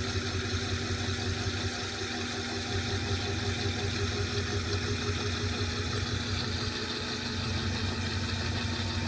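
2012 LG top-load washing machine spinning its drum during the spin phase. It gives a steady motor hum with a low rumble and a few steady whining tones, with some vibration of the cabinet.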